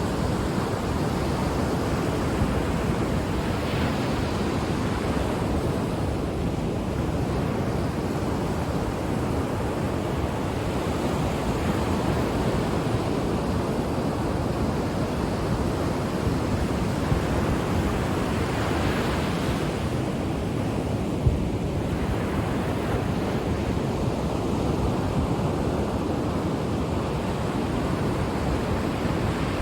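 Ocean waves breaking on a shore: a steady rush of surf that swells twice, about four seconds in and again about two-thirds of the way through.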